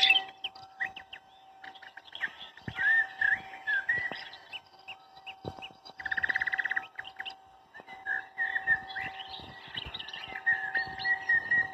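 Small birds chirping and twittering in short gliding calls, with a rapid buzzy trill about six seconds in. A faint steady hum runs underneath.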